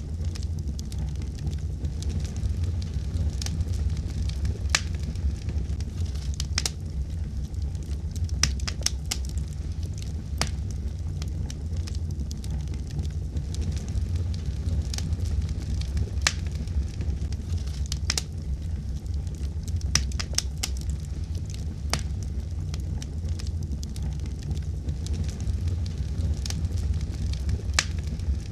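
Wood fire burning in a fireplace with a steady low rumble, and frequent irregular sharp crackles and pops throughout.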